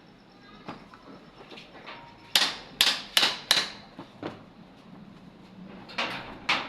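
A series of sharp knocks on the angle grinder's parts: four quick loud ones about two and a half seconds in, then a lighter one, then two more near the end. They sound like parts being tapped or pressed into place.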